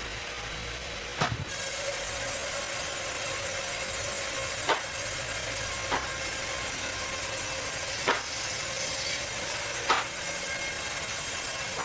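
Sawmill running with the steady hiss of its saw and a faint steady hum, broken by five sharp knocks at irregular intervals.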